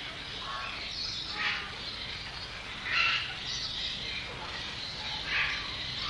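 Rainforest ambience: forest birds calling in short scattered chirps, the loudest about three seconds in, over a steady low background noise.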